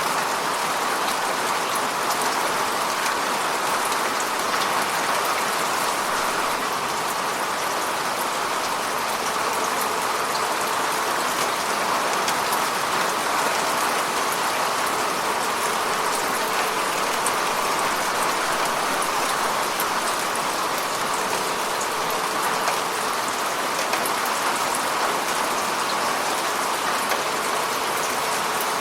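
Heavy rain falling steadily, a dense even patter of drops on hard surfaces.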